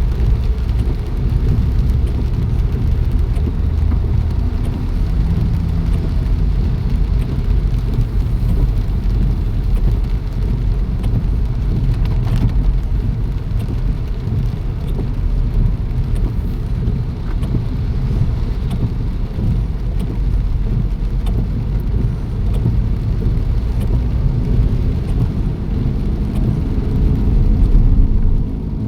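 Steady rain under a constant deep rumble, with scattered faint ticks of drops.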